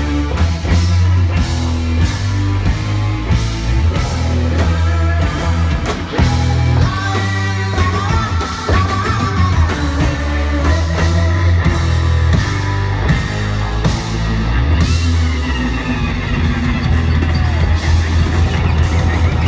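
A rock band playing live: heavy bass, drum kit and guitar, with a voice singing over them in the middle stretch.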